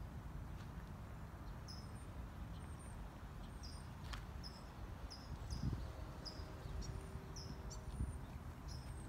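A small bird chirping repeatedly, short high notes about twice a second, over a low outdoor rumble; a faint steady hum joins about six seconds in.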